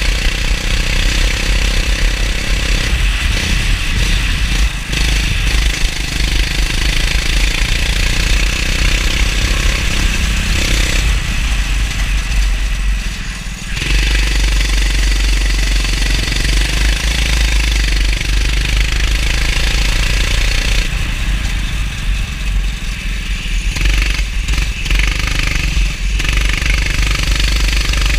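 Racing kart engine running hard and close to the microphone, with a heavy rattling drone and a hiss over it; its note shifts several times as the kart goes through corners, with a brief drop in level about halfway through.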